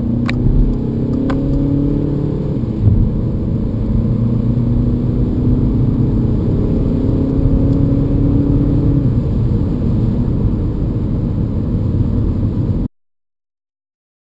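2013 Audi A3's 2.0 TDI four-cylinder turbodiesel heard from inside the cabin, accelerating with the engine note slowly rising in pitch. About three seconds in there is a brief bump as the six-speed S tronic shifts from third to fourth, and the car then pulls on. The sound cuts off abruptly near the end.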